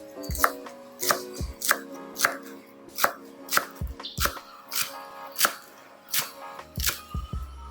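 Knife chopping lettuce into chiffonade on a cutting board, a steady run of sharp knocks about two a second.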